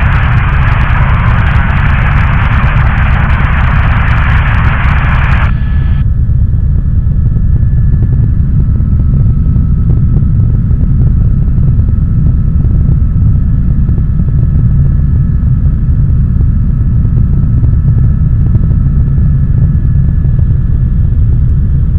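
Helicopter engine and rotor noise heard in flight: a loud, steady, heavy low rumble with a fast blade flutter. A higher hiss lies over it at first and cuts off suddenly about five seconds in.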